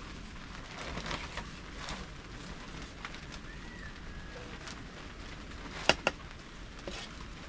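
Steady hiss of rain with the crackle of a wood cooking fire, broken by two sharp clicks close together about six seconds in.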